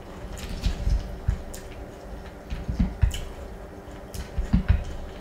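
Close-miked chewing of a mouthful of crunchy Trix cereal in milk: wet crunches and squishes coming in irregular clusters. Near the end a wooden spoon scoops through cereal in a glass bowl.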